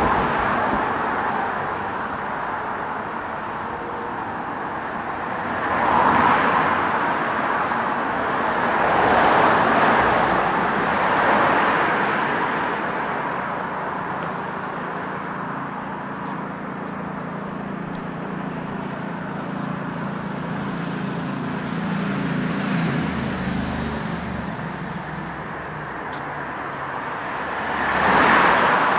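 Street traffic: cars passing one after another, each swelling and fading, with a steady low engine hum from a vehicle in the middle stretch.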